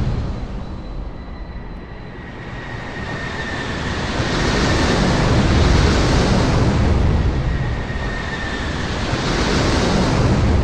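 Ocean surf: a steady wash of waves that swells and eases in slow surges, dipping about two seconds in and building again twice.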